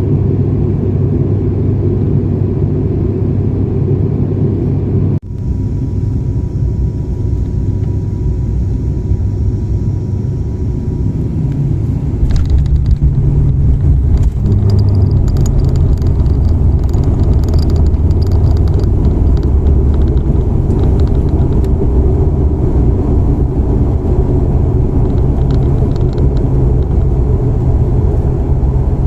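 ATR twin-turboprop airliner heard from inside the cabin: a steady loud drone of engines and propellers. It dips briefly about five seconds in, then grows louder from about twelve seconds in with rattling, as on the landing and runway roll-out.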